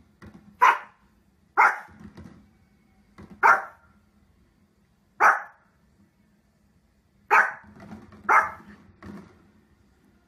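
A small Pomeranian dog barking: six sharp, high barks spaced a second or two apart, with a few softer barks between.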